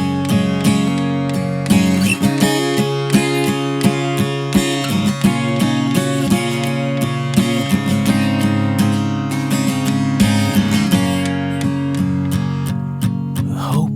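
Acoustic guitar strummed in a steady rhythm, chords ringing between the strokes: the song's instrumental intro before the vocals come in. The strumming lightens about a second before the end.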